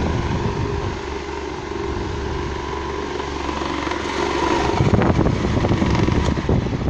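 Britânia electric fan running with its blade out of balance, the fan shaking and rattling hard against its surface: a steady motor-and-blade hum with fast knocking, heaviest near the start and in the last couple of seconds. The vibration comes from the unbalanced blade, which wears out the bushings and shaft.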